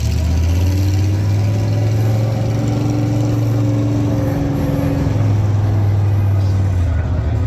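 Monster truck's Chevrolet V8 engine running under throttle as the truck is driven, a steady low drone that holds fairly even pitch with a slight shift about halfway through.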